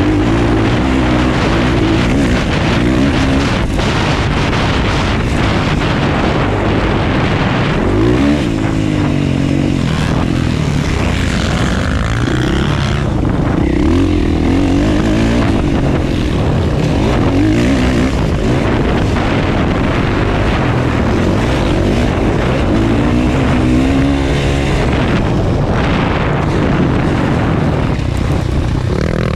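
Motocross bike engine racing: the engine note repeatedly rises and falls as the throttle is opened and closed, loud and continuous throughout.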